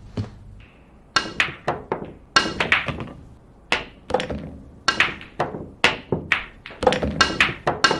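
Billiard balls clicking together in a quick, irregular run of sharp knocks, each with a brief ringing tail.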